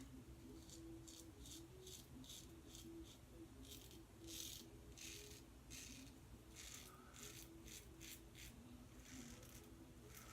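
Double-edge safety razor scraping stubble against the grain in a run of short, faint strokes, about two a second. The blade is dull and pulling at the beard.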